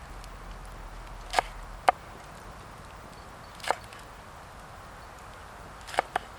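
Blade chopping into wood: five sharp knocks at uneven intervals, the last two close together near the end.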